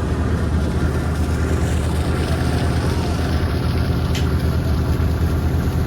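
Steady low drone of an Amazon river passenger boat's diesel engine running under way.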